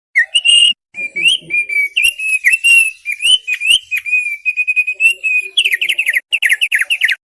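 Thick-billed white-eye (opior paruh tebal) singing a fast, varied phrase of chirps and short whistled notes. It ends in a rapid run of falling notes.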